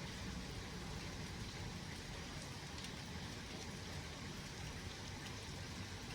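Steady rain falling during a thunderstorm, an even hiss with faint scattered drop ticks and no thunderclap.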